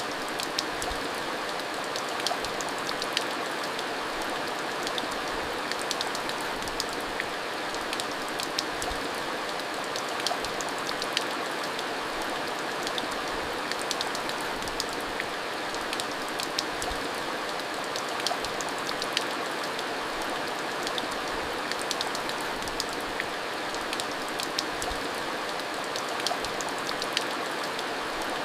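Steady monsoon rain falling, a constant hiss with many sharp individual drop splashes and ticks scattered through it.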